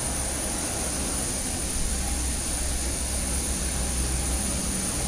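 Steady vehicle cabin noise: a constant low rumble under an even hiss, with no distinct events.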